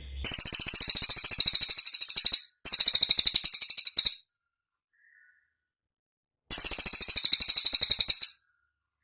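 Cililin bird singing very rapid, high-pitched trills in three bouts: two close together, then a third after a pause of about two seconds.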